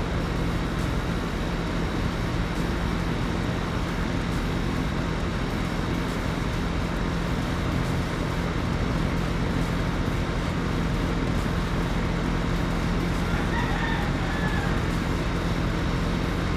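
Steady hum and hiss at an even level, with a brief faint bird-like call about fourteen seconds in.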